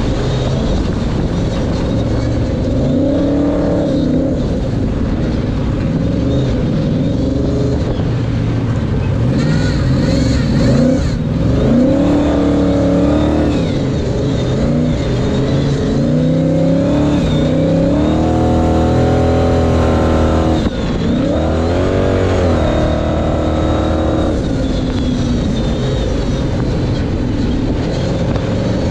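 Pre-runner Ford Ranger race truck's engine revving hard, its pitch repeatedly climbing and dropping as the throttle is worked through the course, with a brief break in the sound about three-quarters of the way through.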